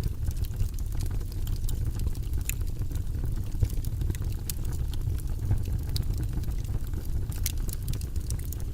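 Fire crackling in a fireplace: a steady low rumble of flames with scattered, irregular sharp pops and crackles.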